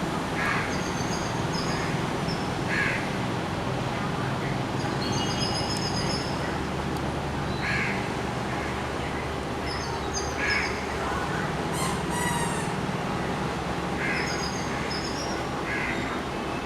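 Birds calling over a steady hiss of rain. Short harsh calls alternate with brief whistled phrases every couple of seconds, and there is a quick rattling series about two-thirds of the way through.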